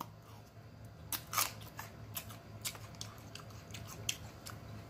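Close-miked biting and chewing of a jalapeño pepper: irregular crisp crunches and wet mouth clicks, about ten of them spread through a few seconds.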